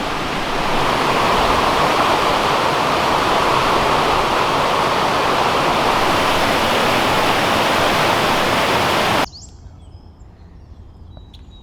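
Steady, loud rush of Wahkeena Falls, a waterfall, which cuts off suddenly about nine seconds in. It leaves a much quieter background with a few faint high chirps.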